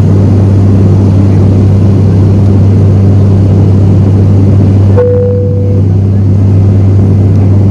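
Loud, steady low engine drone heard from inside a moving vehicle's cabin, with a short steady tone about five seconds in.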